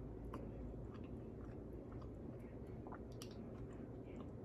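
Faint chewing of a mouthful of food, soft mouth sounds with a few small clicks, one sharper click about three seconds in.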